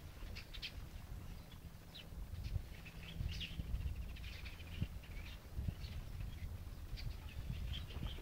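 Small birds chirping in the trees: short, scattered high chirps and calls throughout, over a low steady rumble.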